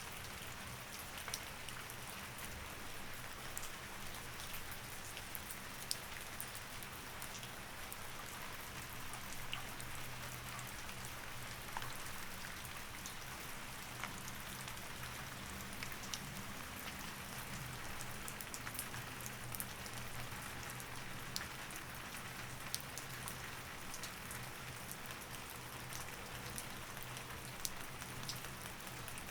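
Steady rain falling, an even hiss with many scattered drop ticks, over a faint low steady hum.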